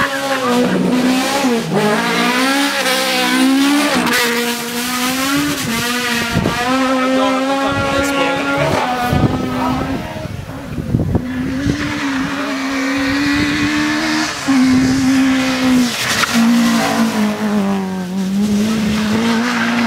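Race car engine held at high revs, its note stepping up and down as the car is driven hard, with tyres squealing, most plainly in the second half.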